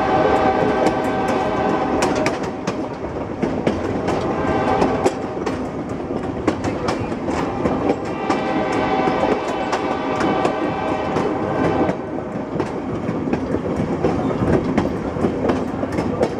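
Excursion train rolling over jointed rail, its wheels clicking over the joints, while its horn sounds two long blasts for a highway grade crossing. The first blast fades about two and a half seconds in, and the second runs from about six to twelve seconds in.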